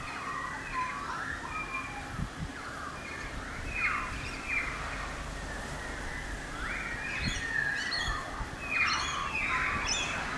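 Several birds calling at once, overlapping calls that sweep up and down in pitch, with louder bursts about four, seven and nine seconds in.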